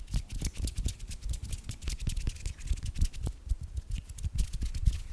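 Hands slick with body lotion rubbing and pressing together: a rapid, irregular run of small wet clicks over low thumps.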